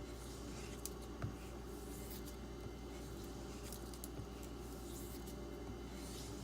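Soft swishing strokes of a knife blade drawn over a strop loaded with 0.5 micron diamond, with a few light clicks, over a steady low hum.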